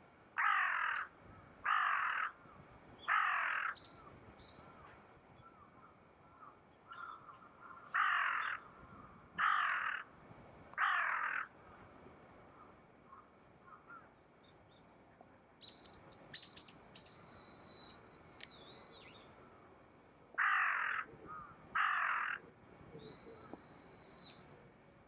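A crow cawing in short runs: three caws about a second and a half apart, then three more after a pause, then two near the end. A smaller bird gives thin, high calls in between.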